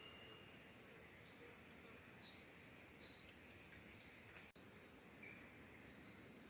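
Quiet rainforest ambience with a faint run of short, high, thin chirping notes stepping up and down in pitch from a small bird. A single sharp click about four and a half seconds in.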